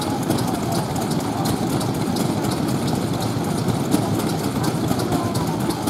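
Vintage Japanese stationary petroleum engines (hatsudoki) running steadily at low speed: an even, unbroken mechanical chugging with many light clicks over it.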